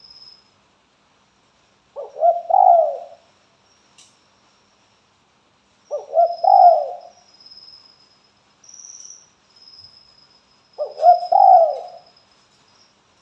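Spotted dove (tekukur) giving its cooing call: three low phrases of several coos each, about four to five seconds apart. A faint high thin tone comes and goes behind them.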